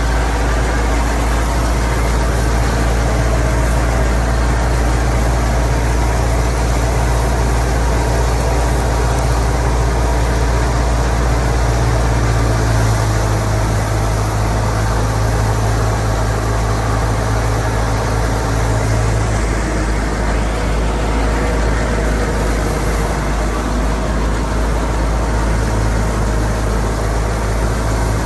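Fiat 480 tractor's diesel engine running steadily under load, driving a wheat thresher, with the thresher's continuous rushing, clattering noise over the engine note. The engine note shifts slightly a little past the middle and settles again near the end.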